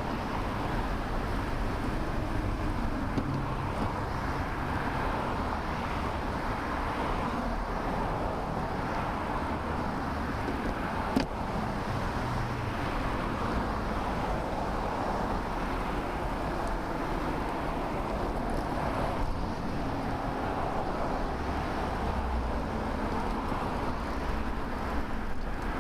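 Steady rush of wind and road noise on a bicycle-mounted camera riding along a road with motor traffic, swelling slightly now and then. There is a single sharp click about eleven seconds in.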